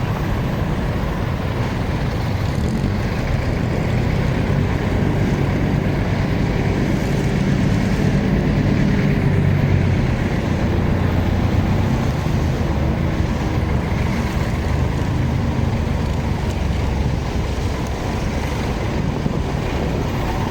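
Motorcycle riding in traffic: its engine running steadily under road noise, growing a little louder partway through.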